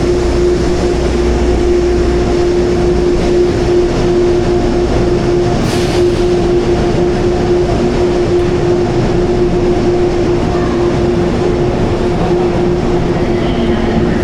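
Interior of an NJ Transit commuter rail car in motion: the steady rumble of the running train with a constant hum.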